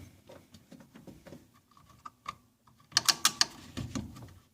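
Small clicks and rattles of hands fitting the electrical connector and parts of a windshield washer pump, with a burst of sharper clicks about three seconds in.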